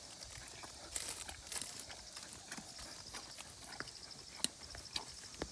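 Faint scattered clicks and knocks from handling, with two sharper knocks near the end.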